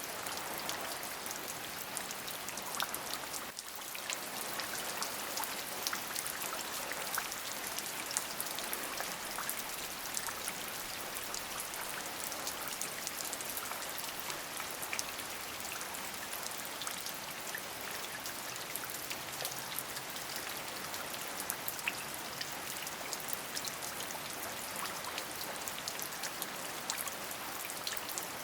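Steady rain falling, with many individual drops pattering on a surface. The level dips briefly about three and a half seconds in.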